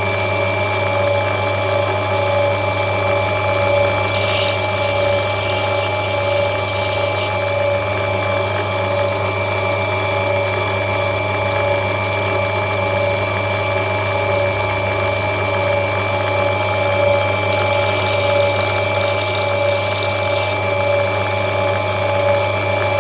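Lapidary grinding machine running steadily with a hum, and twice, about four seconds in and again about seventeen seconds in, a hissing grind lasting a few seconds as the opal is pressed against the wheel to rub it back.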